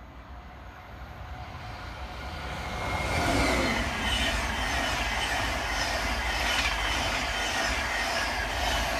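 InterCity 225 express, with a class 91 electric locomotive and driving van trailer, coming up and passing at speed. It grows louder over the first three seconds and then runs loud and steady, its wheels clicking over the rail joints in an even rhythm.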